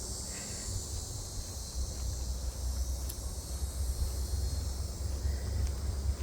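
A steady, high-pitched chorus of buzzing insects, such as crickets, over a low rumble.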